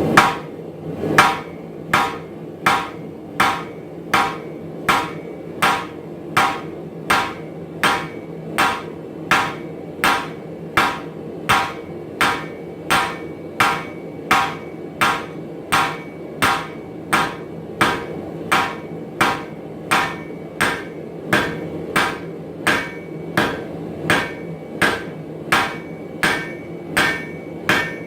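Hand hammer striking metal on an anvil in a steady rhythm, about one and a half blows a second, over a steady low hum.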